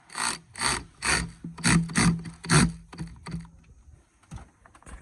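A tool working a fastener in short rasping strokes, about two a second, with a faint steady hum under them. The strokes fade away after about three and a half seconds.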